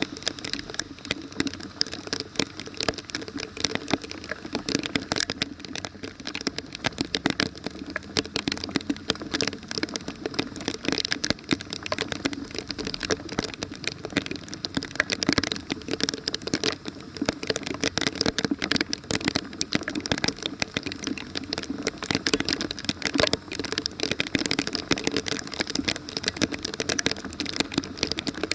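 Rain pattering, with a dense, irregular crackle of clicks and small rattles throughout.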